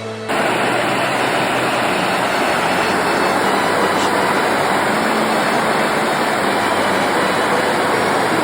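Buttermilk Falls on the Raquette River: water rushing over the falls in a loud, steady roar, which cuts in suddenly just after the start.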